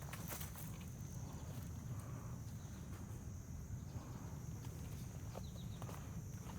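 Footsteps through brush, with scattered small snaps and crackles of twigs and leaves underfoot, over a steady low rumble and a thin, steady high-pitched hum.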